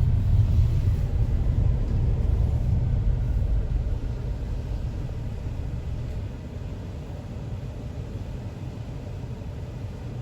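Low rumble of a car with a window rolled down, as wind and road noise buffet the open window. It is loud at first and eases off about halfway through, then stays steady and quieter.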